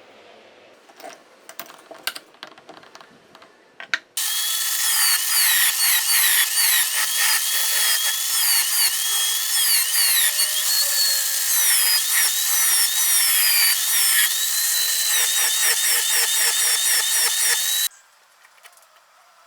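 A few light handling clicks, then about four seconds in an electric drill starts at full speed and runs for about fourteen seconds, with a wavering high whine and scraping on wood. It then cuts off suddenly.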